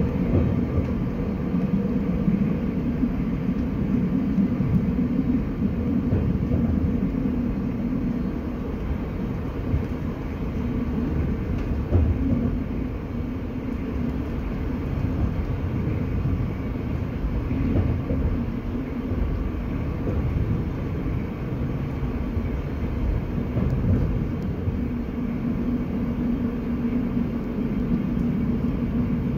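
Passenger train running, heard from inside the carriage: a steady low rumble of wheels on track with a constant hum, and a single light knock about halfway through.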